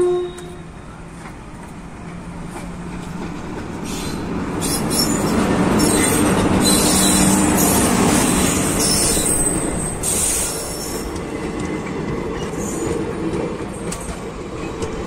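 A passenger train passing close by: a train horn cuts off just after the start, then the locomotive and coaches rumble past, growing louder to a peak about halfway. High wheel squeals come on and off through the loudest part, and the rolling of the coaches goes on to the end.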